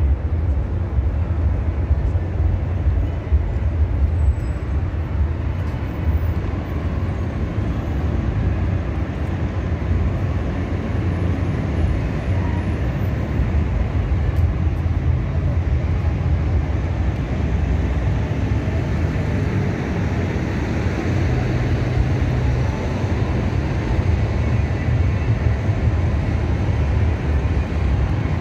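Steady traffic on a busy city boulevard, a continuous low rumble of passing cars and buses.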